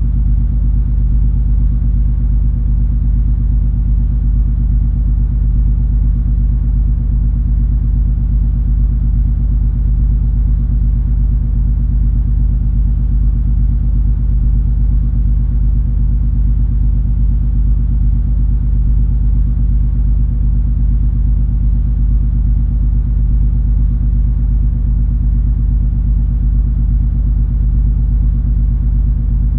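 Steady low drone of the cruise ferry MS Color Magic's engines and machinery: a deep, unchanging hum with several held low tones.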